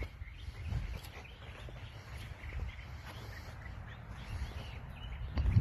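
Birds chirping in short scattered calls over a low, steady rumble on the microphone.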